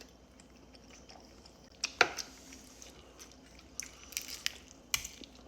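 Close-miked chewing of tough, rubbery king crab meat, with scattered wet mouth clicks and a sharp snap about two seconds in.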